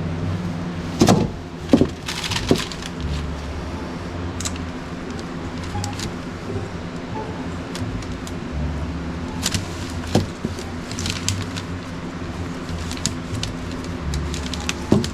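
Steady hum of a shop fan or air-handling unit. Scattered sharp knocks and clicks of things being handled, loudest about a second in and near two seconds, with a few short scraping hisses in the second half.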